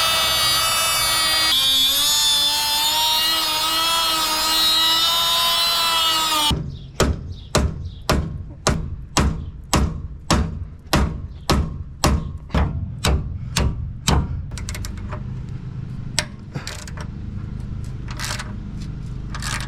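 A loud whining tone whose pitch shifts for the first six seconds or so, then about fifteen hammer blows at roughly two a second on a rusted, seized sway bar link fitting, followed by lighter scattered taps and clicks.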